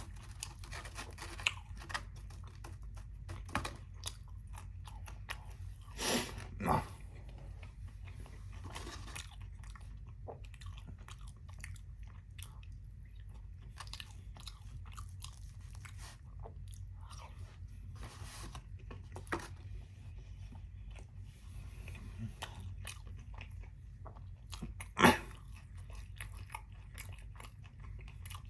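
Close-miked chewing and crunching of breaded fried chicken chunks, with irregular crackles and mouth sounds throughout. Louder bursts come about six seconds in and a sharp loud one near the end.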